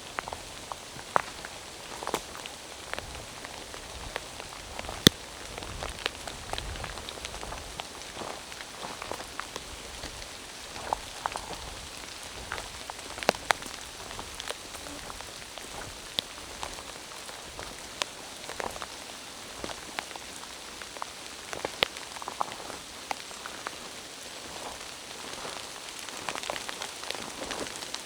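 Rain falling through forest: a steady patter with many scattered sharp drips landing close by, the sharpest about five seconds in.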